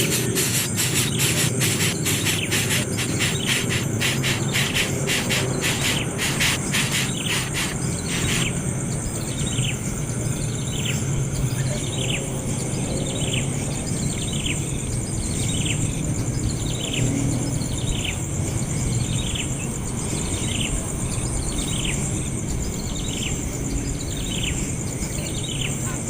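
Insects trilling: a fast, dense buzz for the first eight seconds or so, then a steady high drone. Over the drone a bird gives a short falling chirp about once a second.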